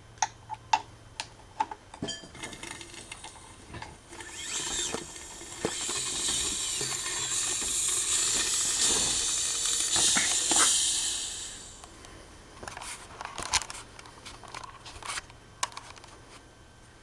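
A power tool runs steadily for about seven seconds, with sharp metal clinks and clicks of hand tools on the engine parts before and after it.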